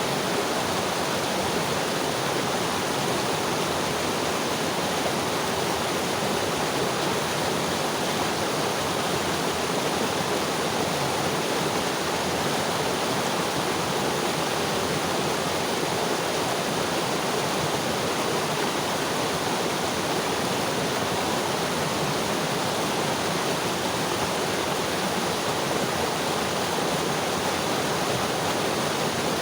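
Mountain river flowing over rocks: a steady, even rush of water with no breaks.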